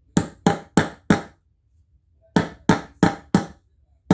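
Sharp blows driving a ball bearing into a wheel hub: four quick strikes, a pause of about a second, then four more, each with a short metallic ring.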